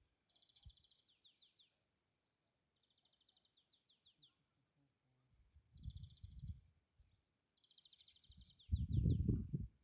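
A songbird singing outdoors, repeating a short phrase about four times: a fast high trill followed by a few quick downward-slurred notes. A low rumbling noise comes in twice, briefly about six seconds in and louder near the end.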